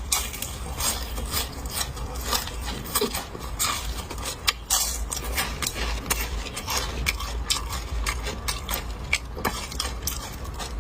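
Close-miked chewing and crunching of home-fried small yellow croaker: irregular crisp crackles and clicks over a low steady hum.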